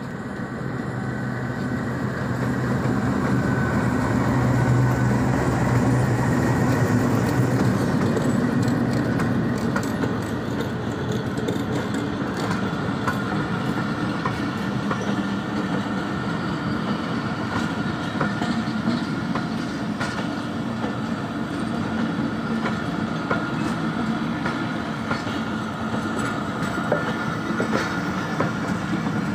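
A passenger train hauled by a GEU-20 diesel-electric locomotive rolls past. The locomotive's engine drones and is loudest about five seconds in, then the coaches roll by with a steady clickety-clack of wheels over rail joints.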